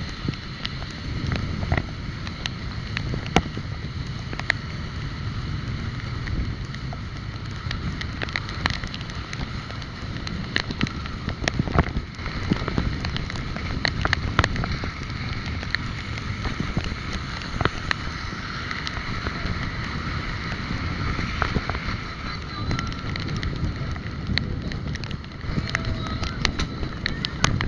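Wind buffeting the microphone and road noise from a moving bike ride, a steady rumble with frequent short clicks and rattles throughout.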